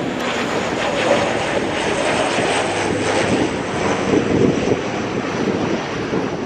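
ATR 72-600 turboprop airliner departing, its two turboprop engines and propellers running with a steady, loud noise.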